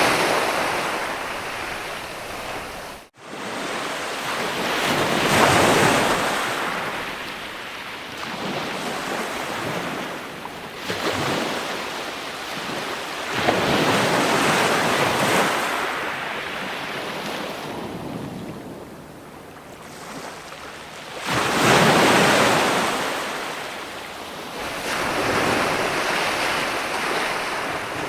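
Ocean waves breaking and washing up, the surf swelling and ebbing every few seconds, with a brief cut to silence about three seconds in.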